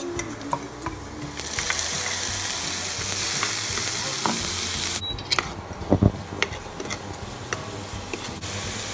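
Ground spice masala hitting hot oil and browned onions in a frying pan, sizzling strongly from about a second and a half in until it stops suddenly near five seconds. After that a steel spoon scrapes and taps in the pan as the onions and spices are stirred, with the sizzle rising again near the end.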